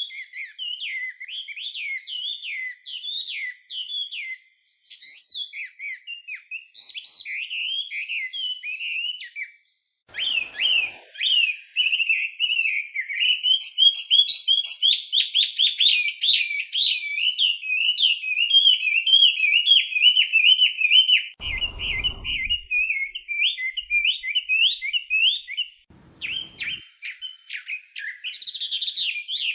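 Chinese hwamei singing a long, fast, varied song of whistled phrases and rapid trills, with a short break about a third of the way in. A brief low rumble sounds about two-thirds of the way through, with fainter ones near the start of the song's second part and near the end.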